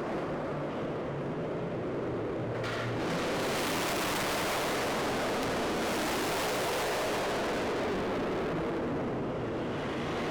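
Loud, steady rushing noise of car engines and exhausts as cars leave the meet, swelling and brightening about two and a half seconds in.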